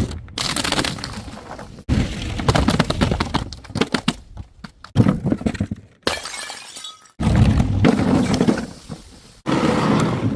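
Glass bottles smashing and shattering, with many shards clattering and tinkling after each break. About five separate breaks follow one another, each starting abruptly and dying away.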